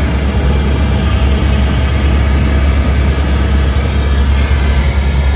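Steady, loud low rumble of a running vehicle or engine, unchanging throughout.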